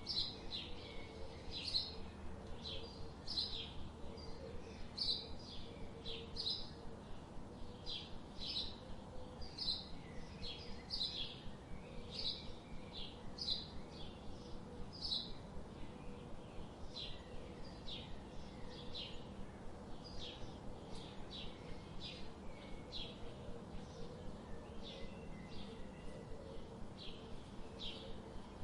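Songbirds chirping: short high notes repeated steadily, about two a second, over a faint steady background noise.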